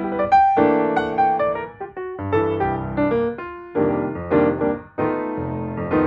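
Background piano music: a run of struck notes and chords, each starting sharply and fading.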